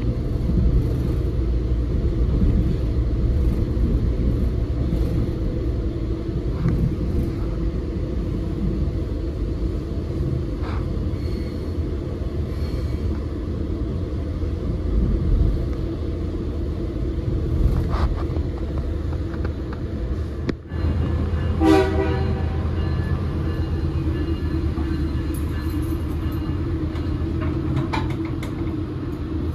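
Passenger train running with a steady low rumble. About two-thirds of the way through, a short train horn blast sounds.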